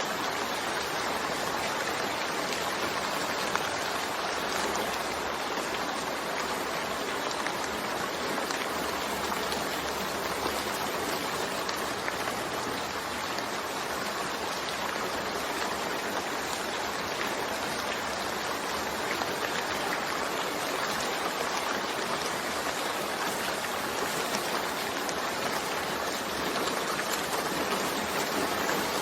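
Steady rain falling, an even, unbroken hiss of water that holds the same level throughout.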